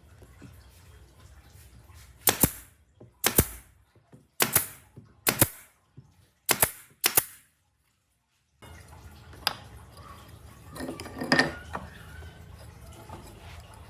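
Six sharp knocks, each with a short ring, about a second apart. After a brief cut there are softer knocks and a short clatter.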